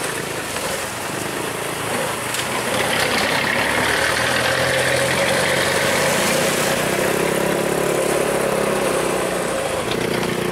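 Motor vehicle engine running steadily. About two seconds in it revs up and gets louder, holds there, and its pitch shifts slowly near the end.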